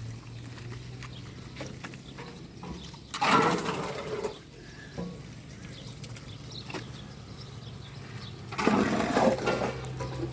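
Water rushing out twice, each gush lasting about a second, over a steady low hum.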